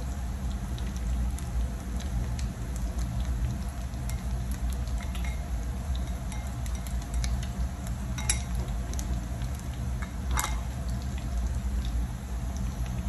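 Beef tortang giniling patties frying gently in a pan over low heat, a steady fine crackle of sizzling with two sharper clicks about eight and ten seconds in, over a steady low hum.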